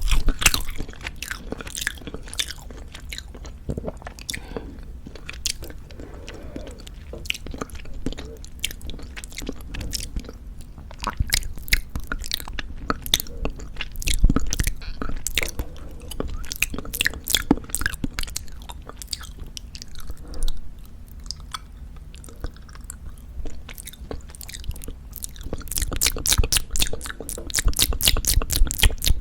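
Close-miked chewing of Jeju black pork jerky: a steady run of sticky clicks and small crunches from the meat being bitten and chewed, getting busier and louder in the last few seconds.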